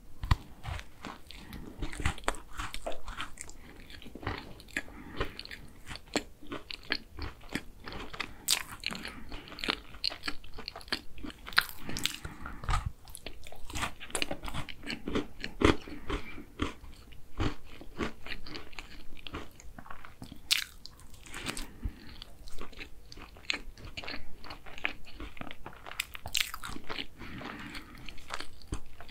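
Close-miked biting and chewing of a chocolate tart, its crisp crust crunching in many small, irregular crackles, with a bite at the start.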